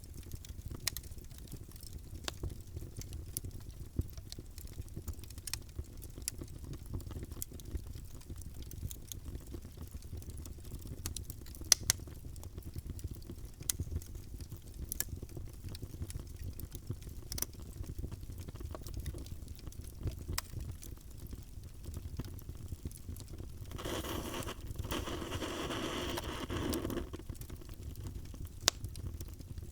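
Wood fire burning in a fireplace: a steady low rumble with scattered sharp crackles and pops, one much louder than the rest about twelve seconds in. Near the end a louder rushing hiss rises for about three seconds, then falls back.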